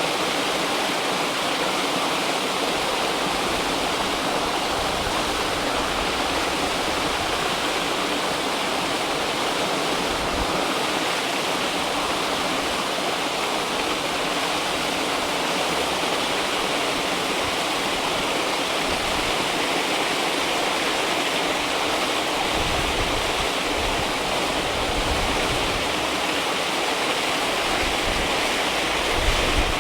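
River water rushing and splashing in a steady, dense wash. In the last third, low gusts of wind buffet the microphone.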